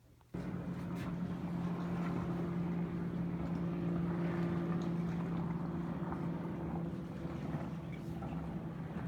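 A motor running steadily, a low hum with a higher overtone, starting abruptly just after the beginning.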